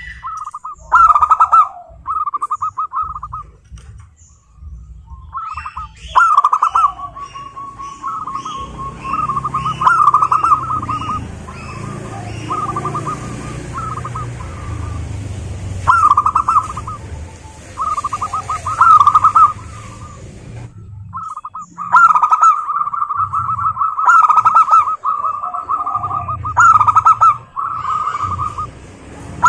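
Zebra doves (perkutut) singing: their rolling, stuttering coo phrases come one after another every few seconds, sometimes running straight into each other.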